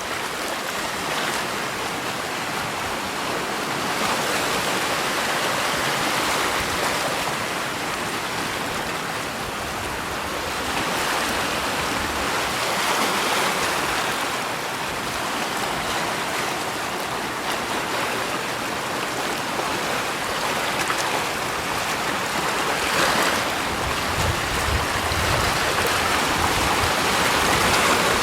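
Rushing water: a steady, even rush that swells and eases gently every few seconds.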